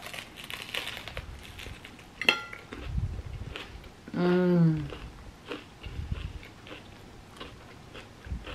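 Biting into a sandwich on toasted French bread, the crust crunching, with a sharp crack about two seconds in. Then close-up chewing with crisp crunches and soft thuds, and a short closed-mouth 'mmm' hum of enjoyment about four seconds in.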